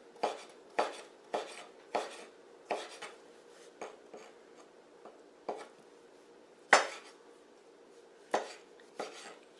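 Knife slicing bamboo shoots on a cutting board: a series of sharp knocks, about two a second at first, then more spaced out, with one louder strike near the end.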